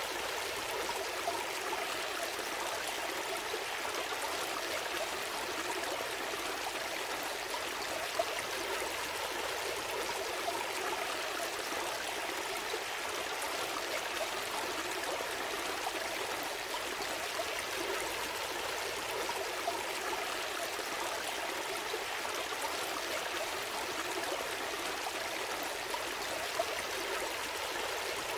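A small stream flowing steadily over stones, an even rushing and trickling of water with small splashes here and there.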